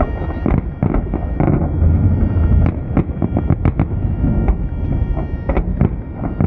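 Festive fireworks salute going off: many bangs and crackles in quick, uneven succession over a continuous rumble, with a steady pitched tone underneath.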